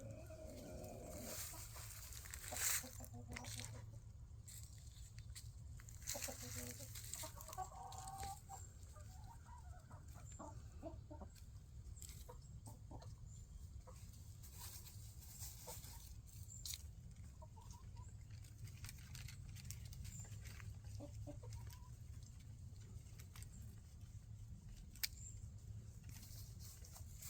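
Scattered short, faint animal calls a few seconds apart over a steady low hum, with an occasional click.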